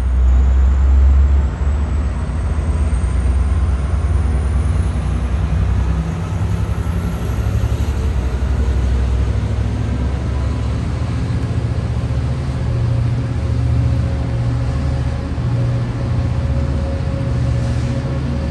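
Sounder commuter train rolling past a station platform: a loud, steady low rumble.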